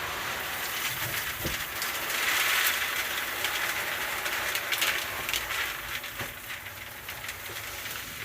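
Dry chicken feed being poured from a bag into a bucket: a continuous rattling hiss of many small pellets and grains, loudest a couple of seconds in and easing off toward the end as the bag empties.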